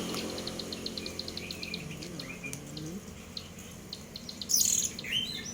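Young cemblek sawah songbird calling. It gives a rapid run of high ticking clicks, about ten a second, for the first half, then short chirps, and a loud burst of high calls near the end. It is practising its ngebrem call.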